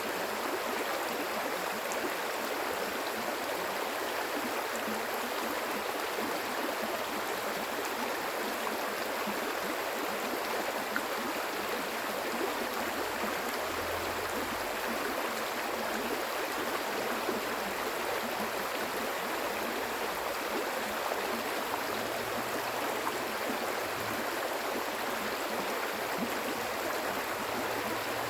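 Stream water flowing and gurgling with an even, steady rush.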